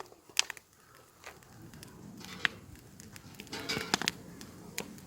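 Wood campfire burning, crackling with irregular sharp pops over a soft hiss; a loud pop about half a second in, another around two and a half seconds, and a denser run of crackles near the end.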